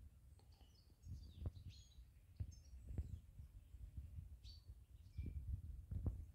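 Small birds chirping in short, high calls scattered throughout, over irregular soft low thumps and rumble.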